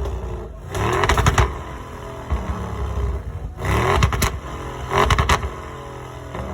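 A car engine revved in three short blips, its pitch rising and falling each time, between steady running.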